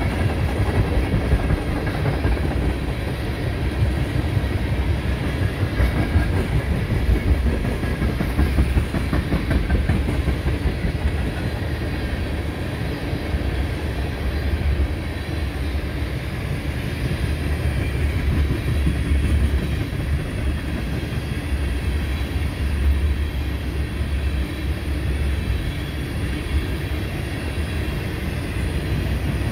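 Empty tank cars of a long freight train rolling past close by: a steady rumble of steel wheels on the rails, heaviest in the low end, with small irregular knocks.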